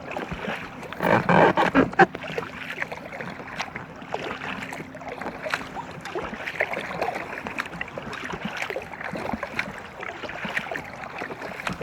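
Water splashing and dripping around an inflatable kayak as it is paddled, with a louder burst of splashing about a second in.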